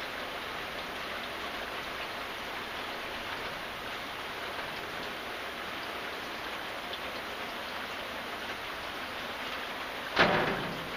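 Steady rain falling as an even hiss, with one sudden loud hit about ten seconds in that dies away within half a second.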